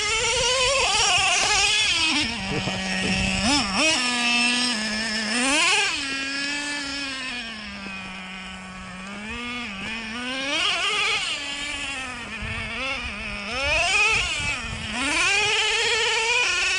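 Traxxas Revo 3.3's small two-stroke nitro engine revving up and down repeatedly as the truck is driven, its pitch climbing and falling over and over, briefly settling near the middle before winding up again.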